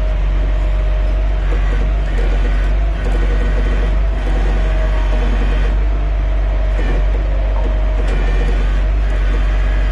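Heavy tow truck's diesel engine running steadily, with a steady whine above the low rumble.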